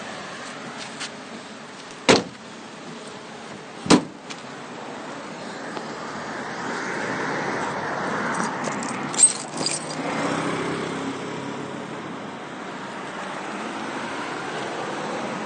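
Road traffic: a car passing, its noise swelling and fading over several seconds. Two sharp knocks come about two and four seconds in, and a cluster of light jingling clicks comes just before the car's noise fades.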